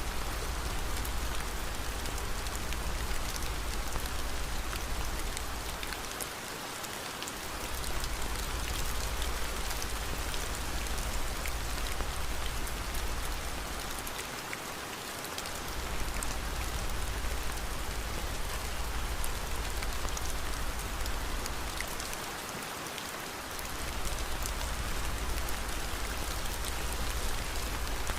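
Steady rain, mixed with faint scattered fireplace crackles. A low rumble under it drops out briefly about every eight seconds.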